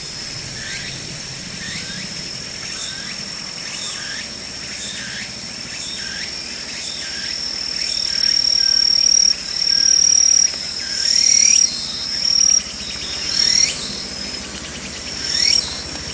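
Forest insect chorus: a cricket-type insect trilling on one steady high note, which grows louder and breaks into separate phrases of a second or so from about halfway. Short sweeping chirps repeat about once a second throughout.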